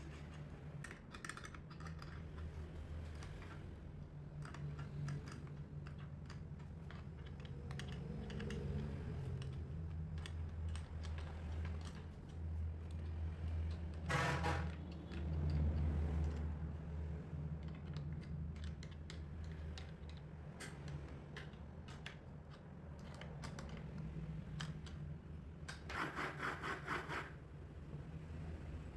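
Workshop handling noises: scattered clicks and knocks of tools and parts being worked by hand over a low steady hum, with a short burst of rapid clicking about halfway through and another, a little over a second long, near the end.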